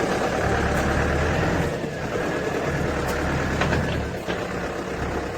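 Engine of farm machinery running steadily with a low, even hum.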